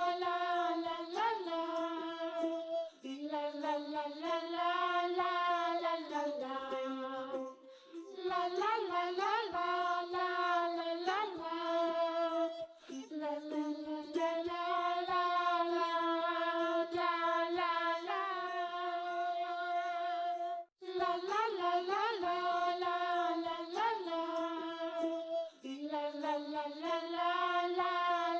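Background music: a child-like voice singing a nursery-rhyme melody in short repeating phrases.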